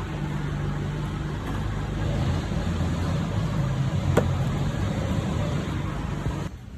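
Volkswagen Golf engine running, its low hum shifting in pitch about a second and a half in, with a sharp click about four seconds in.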